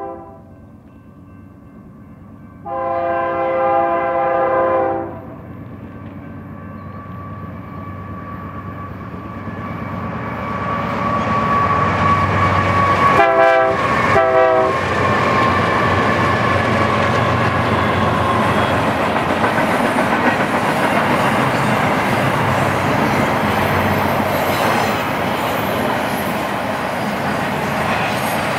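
Diesel freight locomotives hauling a double-stack intermodal train. A brief horn blast at the start and a long one about three seconds in, then the engines grow louder as the train approaches. Two short horn blasts come as the locomotives pass about thirteen seconds in, followed by the steady rumble and clatter of the container cars rolling by.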